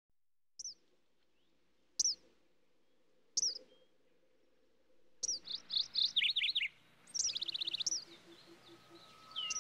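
A songbird chirping: three short single chirps about a second and a half apart, then a quick run of varied high notes and a fast trill of about a dozen notes a second.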